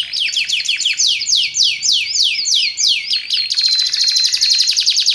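Canary singing: a run of quick, high, downward-sweeping notes, then from about three and a half seconds in a fast, even trill.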